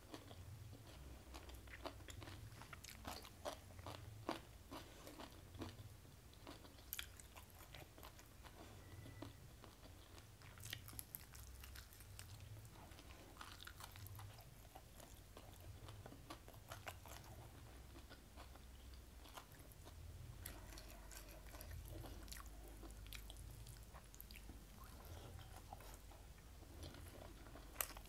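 A person chewing mouthfuls of rice with boiled greens close to the microphone, with faint clicks and smacks of the mouth throughout.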